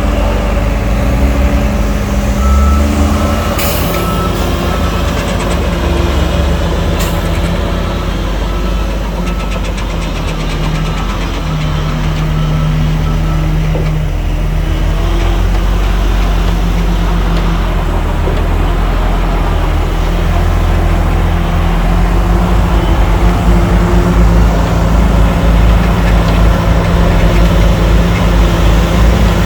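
Heavy diesel engines of a bulldozer and dump truck running, with a truck's reversing beeper sounding repeated beeps through the first half. Two short sharp hisses cut in early, and the engine noise grows louder about two-thirds through.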